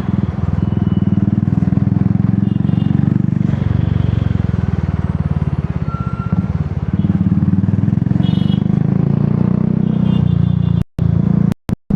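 Royal Enfield Classic 350 single-cylinder engine running through an aftermarket Dolphin exhaust at a steady riding pace, its exhaust beat picking up a little after about seven seconds. The sound cuts out briefly twice near the end.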